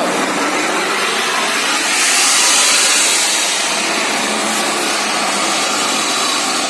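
Motorcycle running through a homemade exhaust, giving a loud steady rushing hiss, the 'suuoooss' sound it was built for; it swells about two seconds in.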